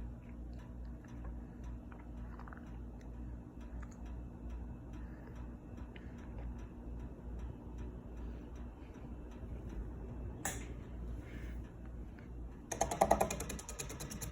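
52-inch Harbor Breeze Classic Style ceiling fan running in reverse: a steady low motor hum with faint, regular ticking. A single click comes about ten seconds in, and near the end a louder, fast rattling starts.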